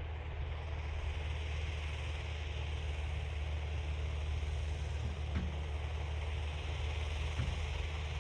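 Farm tractor engine running steadily with a rotary tiller working, a low drone with a hiss above it. Two faint knocks come about five and seven seconds in.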